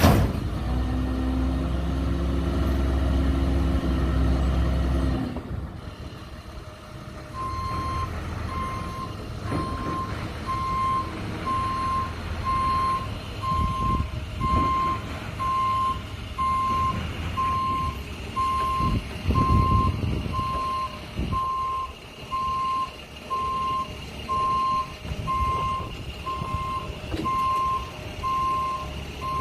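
Dumpster delivery truck's engine running, then about seven seconds in its reverse alarm starts beeping steadily, about once a second, over the engine as the truck backs up.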